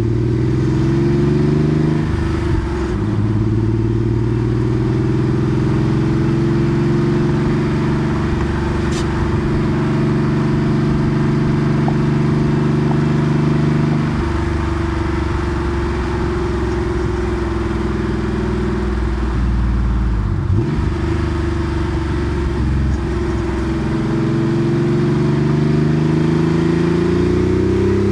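Porsche 964 Carrera 2's air-cooled 3.6-litre flat-six, breathing through a centre straight-through muffler, running under load while driving. The engine note climbs in the first couple of seconds and holds steady. It drops in pitch about halfway through, dips briefly a little later, then climbs steadily through the last several seconds as the car accelerates.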